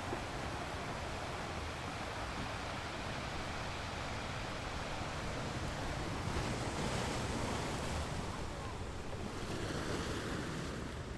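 Ocean surf breaking and washing up a sandy beach, a steady rushing wash that swells louder twice in the second half, with wind buffeting the microphone.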